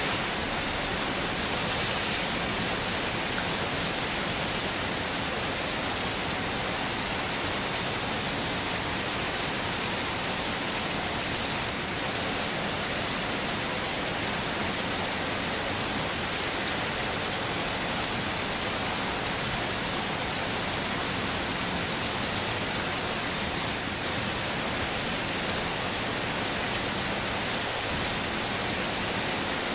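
Heavy rain falling steadily, an even hiss with no let-up, dipping briefly twice.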